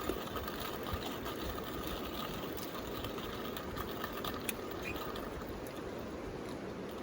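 River flowing with a steady rush, with a few sharp crackles from a bamboo campfire.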